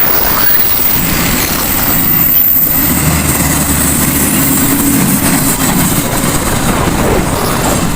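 Heavy vehicle engines running: a steady low drone of idling trucks with traffic hiss over it.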